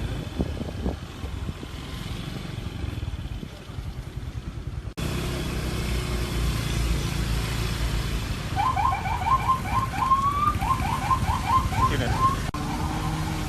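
Storm wind buffeting the microphone as a steady low rumble, cutting off abruptly about five seconds in and resuming. Near the middle, a quick run of short rising chirps sounds for about three seconds.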